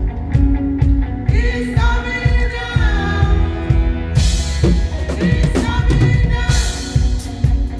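Live gospel praise band playing: a drum kit keeps a steady beat with kick, snare and cymbals over bass guitar while voices sing, and the cymbals open up about four seconds in.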